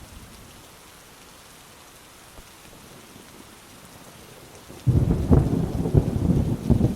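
Steady rain with a thunderclap breaking in suddenly near the end as a loud, crackling low rumble.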